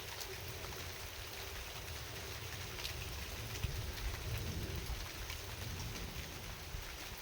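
Steady rain falling, with scattered individual drops ticking sharply against a surface over a low, even rumble.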